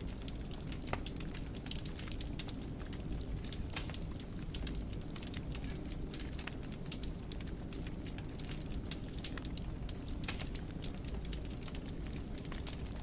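Wood fire burning in a fireplace, with many irregular sharp crackles and pops over a low steady rumble of the flames.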